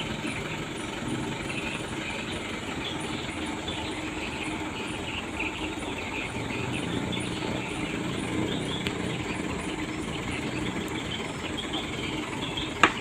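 Truck engine running steadily at a low, even pitch, with insects chirping high above it and one sharp click near the end.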